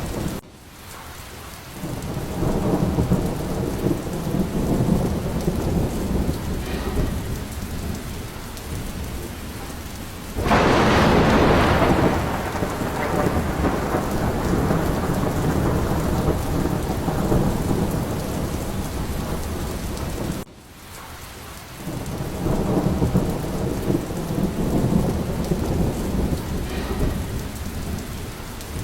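Thunderstorm: steady rain with rolling rumbles of thunder. About ten seconds in comes a sudden, loud thunderclap that fades over a second or two. Near the start and again about two-thirds of the way through, the sound drops off abruptly, then the rumbling builds back up.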